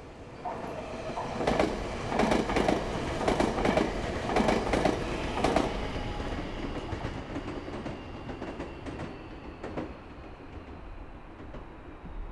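Meitetsu train passing, its wheels clacking over rail joints in pairs of beats, loudest in the first half and then fading away with a few fainter clicks.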